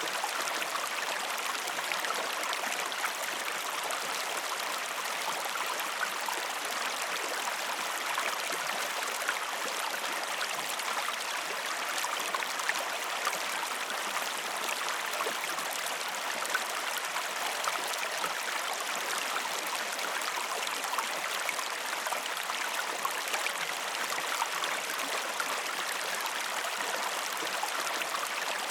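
A river or stream flowing and babbling steadily.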